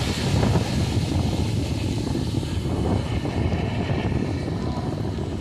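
Wind buffeting the microphone while riding, a steady low rumble with a hiss above it.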